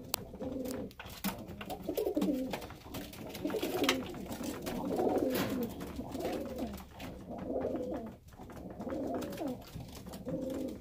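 Several domestic pigeons cooing over one another without pause, the courtship cooing of cocks and hens just put together to pair, with a few sharp clicks among the calls.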